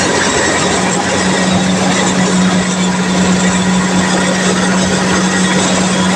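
Kubota DC-70 combine harvester running while it cuts and threshes dense rice: a steady engine hum over dense, continuous machine noise.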